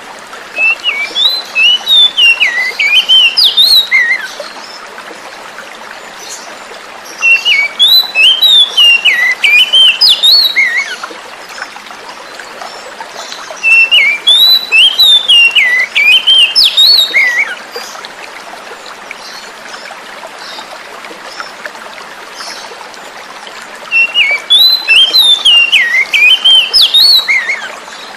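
Oriental magpie-robin singing: four phrases of quick, varied whistled notes, each about four seconds long, with gaps of a few seconds between them. Steady running water is heard throughout.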